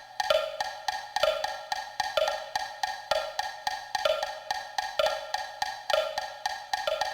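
Computer-generated metronome clicks in two sounds, like a wood block: a stronger click about once every second keeps the steady pulse, while quicker clicks between follow the notated rhythm of the timpani part.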